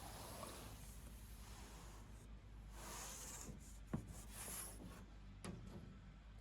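Faint scraping and rubbing, with a sharp tap about four seconds in and a lighter one about a second and a half later.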